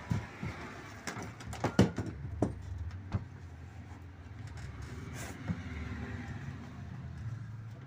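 Sharp knocks and clicks, about eight in the first three seconds, as the magnet rotor of an LG Inverter direct-drive washer motor is worked loose from its shaft. A steady low rumble follows.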